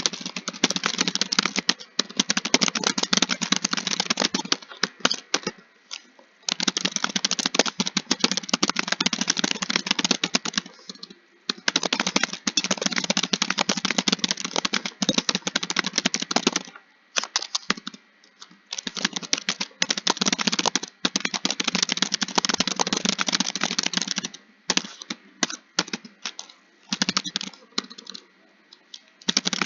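Fast typing on a computer keyboard: long runs of rapid key clicks broken by brief pauses, thinning to scattered keystrokes near the end.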